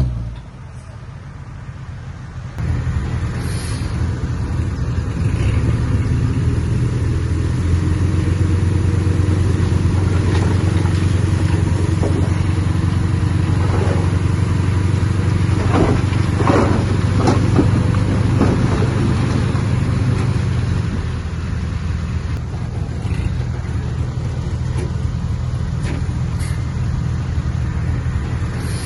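Heavy diesel earthmoving machine running under load with a steady low drone that comes in loudly about two and a half seconds in. It is joined by a few metallic clanks and squeaks around the middle, then eases slightly after about 20 seconds.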